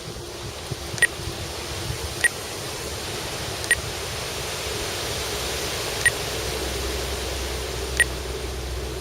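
Strong wind rushing over the microphone, with the steady distant drone of the RC aerobatic plane's motor underneath. Five short high electronic beeps come at irregular intervals, typical of the transmitter's trim or switch beeps.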